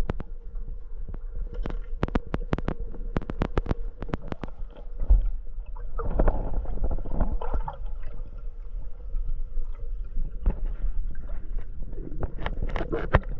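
Underwater sound picked up by a camera in a housing: a low rumble with many sharp clicks and ticks, and a stretch of gurgling water noise about six to seven and a half seconds in.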